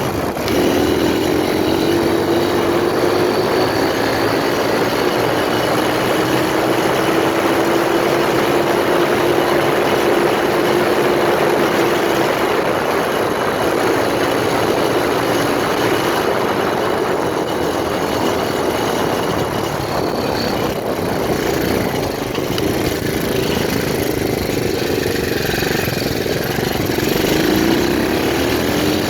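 125cc pit bike engine running as the bike is ridden, its note climbing and sinking slowly with throttle and speed: rising at first, dropping lower in the second half, and rising again near the end.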